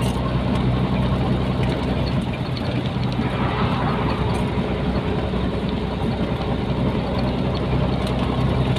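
Nissan Diesel container truck's diesel engine running at a steady, even pitch under a constant rush of road noise.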